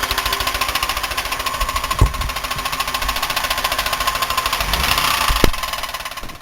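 Buick 3800 V6 running with a fast, steady, heavy knock, with two louder single thumps about two seconds apart near the start and end; the sound dies away at the very end. The knock is the sign of major internal damage, which the owner puts down to a spun bearing, a collapsed lifter or a rod knock.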